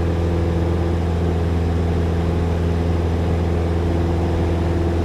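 Light airplane's piston engine and propeller droning steadily at climb power after a touch-and-go, with an even, unchanging pitch.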